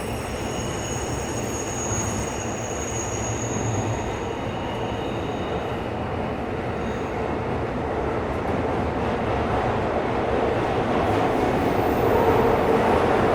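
Tokyo Metro 17000 series subway train running between stations, with a high wheel squeal in the first few seconds that fades out, then steady running noise that grows gradually louder.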